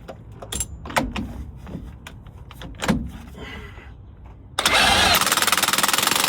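An impact wrench hammers a bolt tight on the driveshaft for about three seconds, starting near the end. Before it come a few metal clicks and knocks over a low steady hum.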